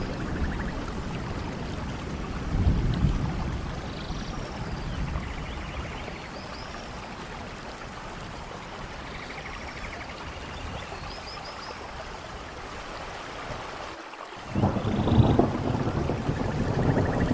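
Thunderstorm in a rainforest: steady heavy rain with rolling thunder, a rumble about three seconds in and a louder, longer rumble building near the end. A few short high chirps sound over the rain.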